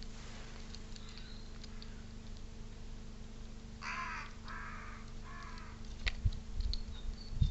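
A crow cawing three times in quick succession, harsh calls about half a second apart, with faint small-bird chirps and a few low bumps near the end.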